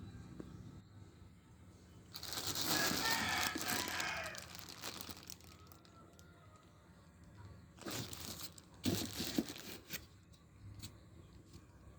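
Packaging being handled and pulled open: a long noisy stretch about two seconds in, then two shorter bursts near the end.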